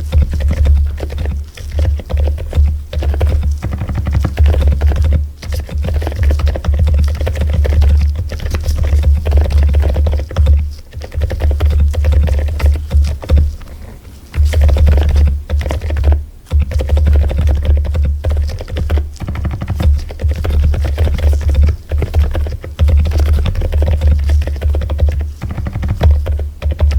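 Continuous typing on a mechanical keyboard, a dense run of key strokes with brief pauses, over background music with a strong steady bass.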